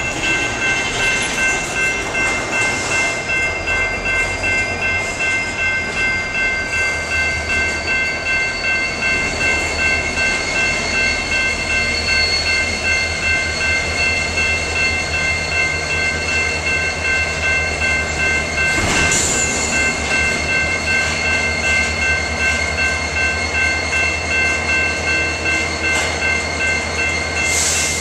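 Train cars rolling steadily past with an even, rhythmic clatter of wheels over the rails, and steady high ringing tones over it. A thin high squeal slides down in pitch over the first few seconds.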